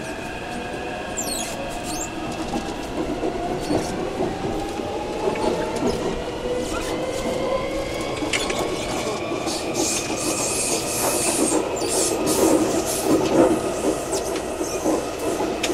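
Taipei Metro C371 train's Mitsubishi IGBT VVVF inverter and traction motors whining as the train accelerates, several tones rising steadily in pitch over growing wheel-on-rail running noise, heard inside the car near the gangway. Brief high screeches and clatter from the wheels come through in the second half.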